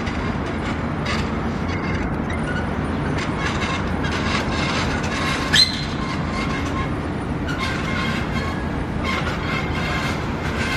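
A steady mechanical rumble with thin high squealing tones over it, like a passing vehicle or train, and one short sharp squeak about halfway through.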